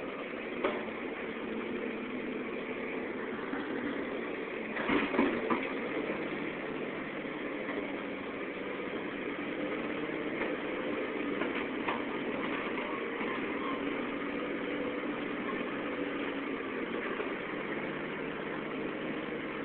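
Caterpillar 235 excavator's diesel engine running steadily, with a few knocks, the loudest cluster about five seconds in.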